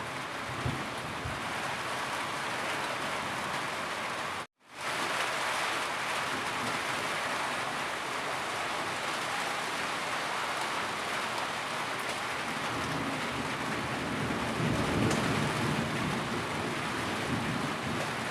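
Steady heavy rain falling and pattering on surfaces, an even hiss. About four and a half seconds in the sound cuts out completely for a split second and returns, and later a low rumble swells under the rain for a few seconds.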